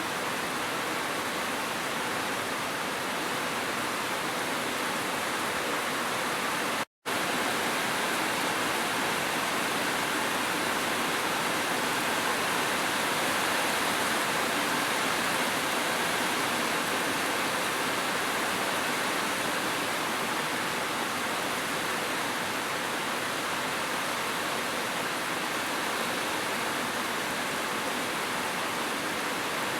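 Steady rushing of a waterfall mixed with gentle rain, an even hiss with no single drops or splashes standing out. It cuts out completely for a split second about seven seconds in, then carries on unchanged.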